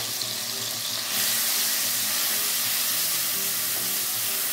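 Ground chili, shallot and garlic paste sizzling in hot oil in a non-stick wok while being stirred with a silicone ladle. The steady hiss grows louder about a second in.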